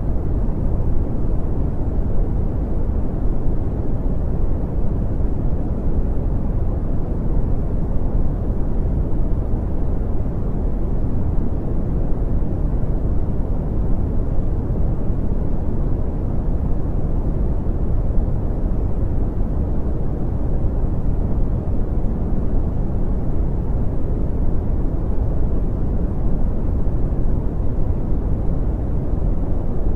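Steady brown noise: an even, deep hiss, heaviest in the low end and falling away toward the highs, with no change in level.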